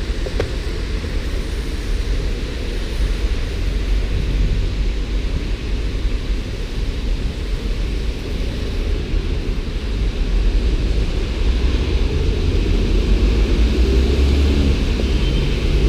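Steady low rumbling outdoor noise with no clear single source, getting a little louder about ten seconds in.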